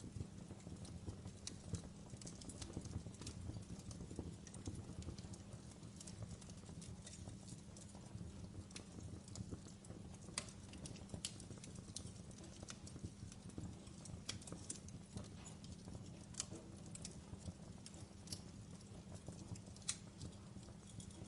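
Wood fire burning in a fireplace. A steady low rumble carries irregular sharp crackles and pops from the burning logs, a few of them louder than the rest.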